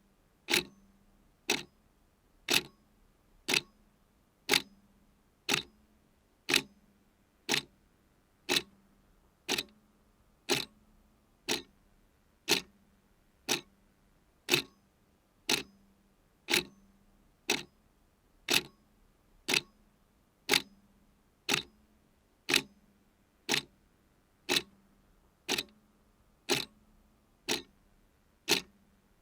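A clock ticking steadily, one sharp tick each second, every tick evenly spaced and alike in loudness.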